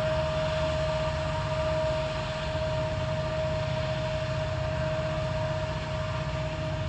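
Norfolk Southern ACU (AC44C6M) diesel-electric locomotives working hard under load: a steady, heavy engine rumble with a constant high-pitched whine over it.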